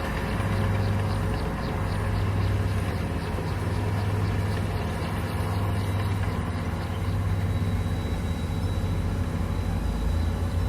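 Komatsu bulldozer's diesel engine running steadily under work, a deep even drone. Over it, for most of the first seven seconds, comes a light rhythmic metallic ticking, about three a second.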